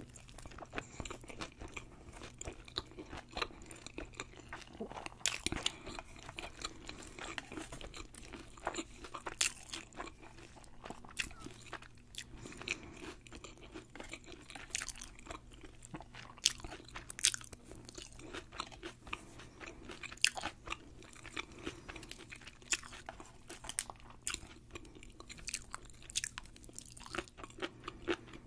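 A person chewing a bite of deep-fried sushi roll close to the microphone: crisp, irregular crunches of the fried coating, a few a second, between quieter chewing.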